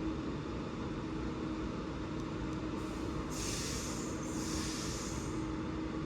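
Class 397 electric multiple unit standing at the platform with a steady hum; about three seconds in, a hiss of air comes in two swells for about two seconds, typical of the air brakes releasing as the train gets ready to depart.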